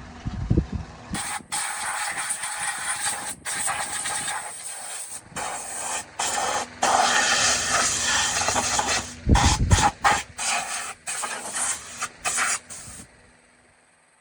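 Loud hissing spray of pressurised air or fluid, cut off and restarted in a string of bursts, with a low rumble partway through; it stops about a second before the end.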